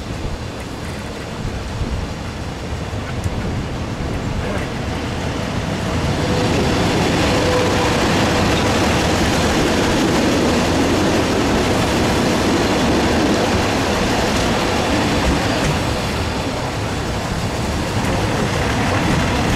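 Passenger train running along the track, heard from inside a carriage: a steady rumble of wheels on rail. It grows louder about six seconds in and stays loud.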